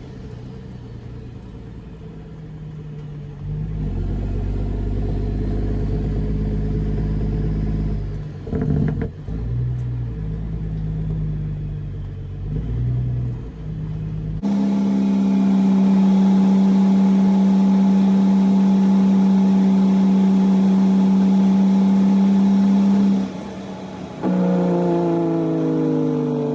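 Caterpillar C13 diesel of a loaded Kenworth W900B dump truck pulling through the gears, its note stepping up and down. About halfway through it settles into a steady drone at constant revs, and near the end the revs fall away.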